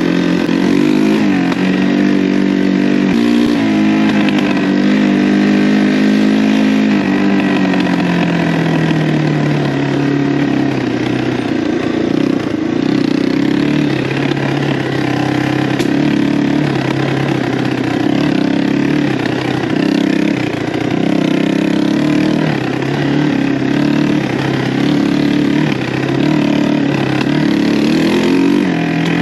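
Engine of a freshly rebuilt 1985 Yamaha 225DX three-wheeler, a single-cylinder four-stroke, running under way on its first break-in ride. It rises in pitch about a second in, falls steadily from about six seconds in, then keeps running with the throttle opening and easing.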